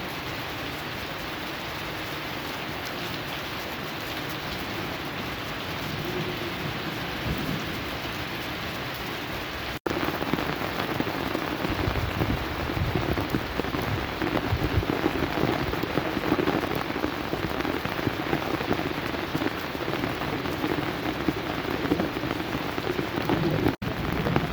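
Heavy rain pouring down steadily. After a brief cut about ten seconds in it is louder, with an irregular low rumble underneath.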